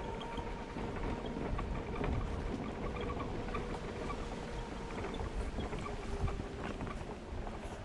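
Rolling rumble of wheels over a rough, sandy trail with roots, with wind on the microphone and scattered light clicks. A steady hum runs underneath and fades out about five seconds in.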